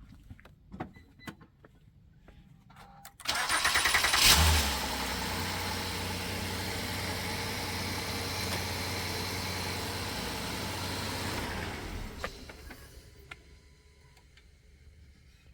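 2013 Honda Accord engine cranking briefly and catching about three seconds in, flaring up and then settling into a steady idle, a sign the no-start fault has been fixed. The engine sound dies away about twelve seconds in; a few light clicks come before the start.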